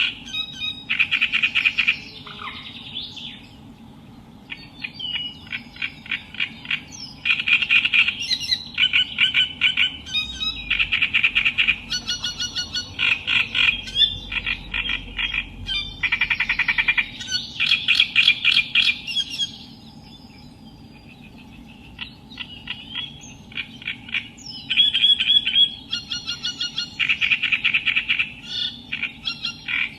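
Reed warbler (Acrocephalus) singing: runs of rapid, harsh, chattering notes repeated in bursts, with short pauses a few seconds in and again about two-thirds through.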